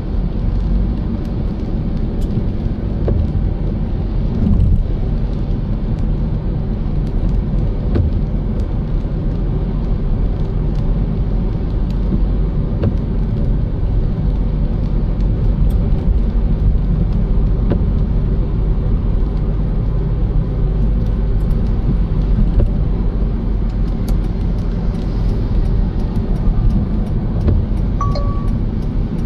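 Car driving along with a steady low rumble of engine and tyre noise and faint scattered ticks, with a short beep near the end.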